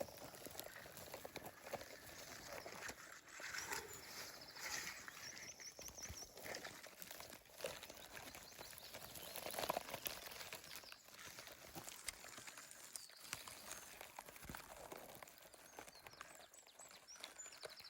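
Faint rustling of vegetation and soft footsteps, with short bursts of small-bird song in the background, about five seconds in and again near the end.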